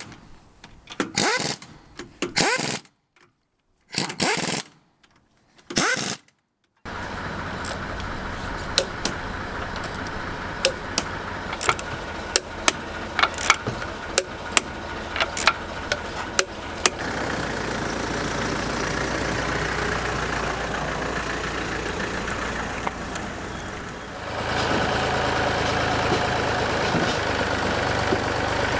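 A few seconds of short, choppy bursts of noise broken by silent gaps, then an engine or motor running steadily with many sharp clicks over it; the running grows louder about three-quarters of the way through.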